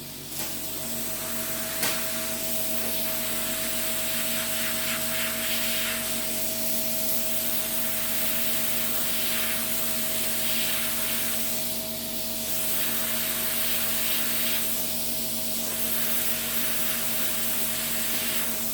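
Podiatry drill with a filing burr starting up, then running steadily with a constant hum while it files down callused skin on a toe. A grinding hiss swells and fades every second or two as the burr is pressed to the skin and lifted.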